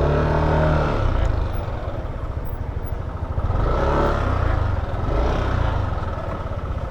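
Yamaha Aerox 155 scooter's single-cylinder engine running at low speed as it is ridden a short way, swelling and easing off a few times.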